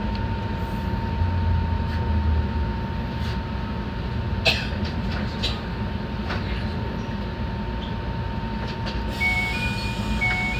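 Enoden electric train running, heard from the cab: a steady rumble of wheels and motor with a thin constant whine. There is a sharp knock about four and a half seconds in, and a few short high beeps alternating in pitch near the end.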